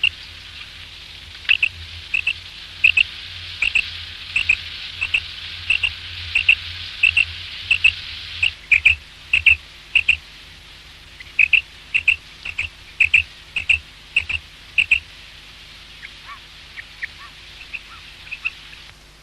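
Common quail calling: a long run of short, sharp notes repeated about every two-thirds of a second, then fainter, sparser calls near the end, over a steady hiss.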